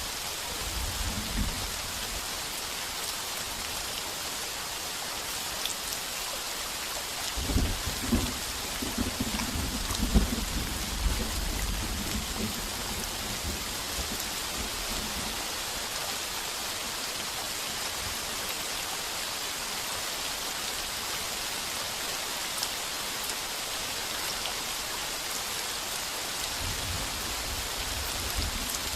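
Heavy rain falling steadily on a tin roof, with thunder rumbling. There is a short rumble about a second in, a louder rolling peal lasting about five seconds a quarter of the way through, and a faint rumble near the end.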